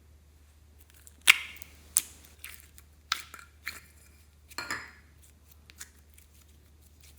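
Slime being worked by hand, giving a string of sharp pops and clicks, about seven in all. The loudest comes about a second in, with a cluster near the middle.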